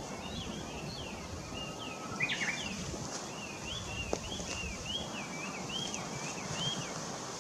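A small bird singing, a quick cluster of chirps about two seconds in, then a run of about ten short whistled notes that slur up and down. Wind rumbles on the microphone underneath.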